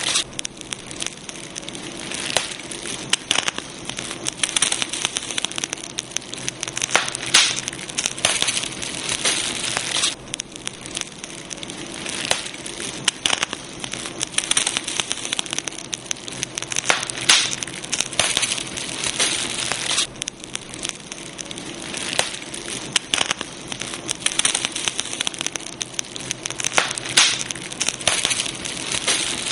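Campfire burning, with continuous irregular crackling and frequent sharp pops over a steady hiss.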